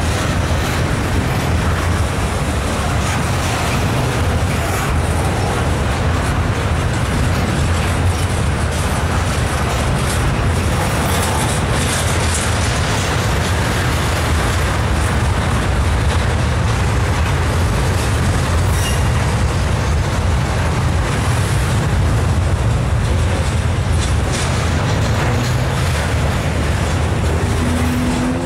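Double-stack intermodal well cars of a freight train rolling past: a steady rumble of steel wheels on rail.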